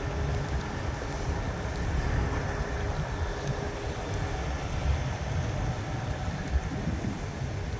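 Steady low rumble of heavy diesel truck engines running, with a faint steady hum above it.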